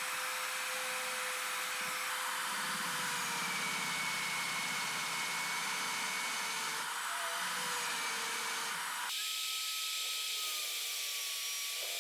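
Electric power tool running steadily, its motor tone dipping slightly partway through as if under load. About nine seconds in, the lower part of the sound drops away and a higher, steady whine carries on.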